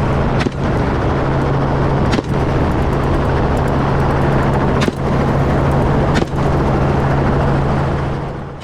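Helicopter engine and rotor running, a steady low drone over dense noise, broken by four brief sharp cracks. It fades away at the very end.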